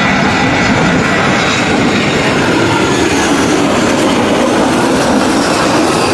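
Jet aircraft engines running, heard as a loud, steady rushing noise with faint steady whining tones in it.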